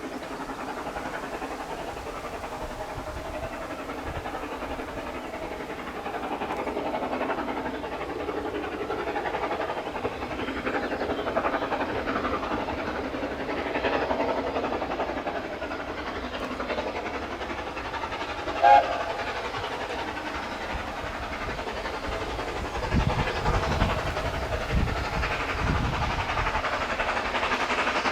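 Steam train running along the line with a steady rumble and rail noise, and a short whistle blast about two-thirds of the way through.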